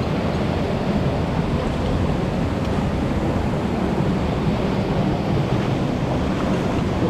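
Mountain stream rushing steadily over rocks, a constant full water noise with no breaks.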